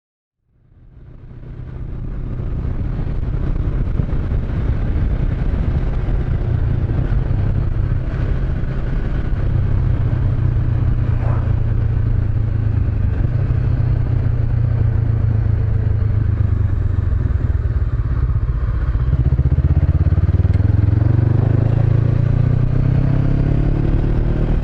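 Honda CB500X motorcycle's parallel-twin engine, fitted with a Staintune exhaust, running steadily while being ridden. The sound fades in over the first couple of seconds, and the engine note rises near the end as the bike accelerates.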